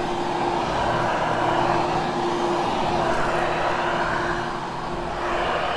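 Hoover HushTone upright vacuum cleaner running on shag carpet: a steady motor hum with rushing air. The sound swells and dips slightly as the vacuum is worked back and forth.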